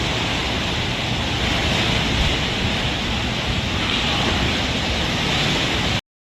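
Floodwater rushing in a steady, even wash of noise that cuts off suddenly near the end.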